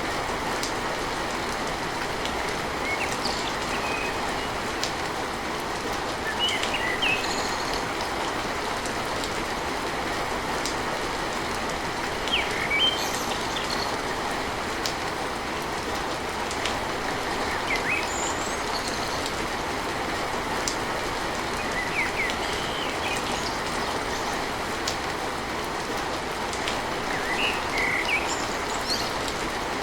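Steady rain on a tin roof, an even hiss, with short high bird chirps scattered over it.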